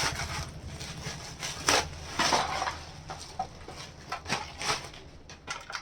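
Packaging being torn open and crinkled by hand: irregular crackling and ripping, in several bursts.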